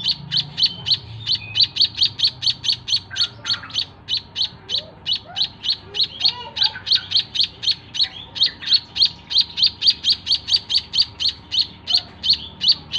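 A young white-headed munia (emprit kaji) giving a rapid, steady run of sharp, lovebird-like chirps, about three to four a second. This is the chatter a hand-fed munia chick makes when hungry.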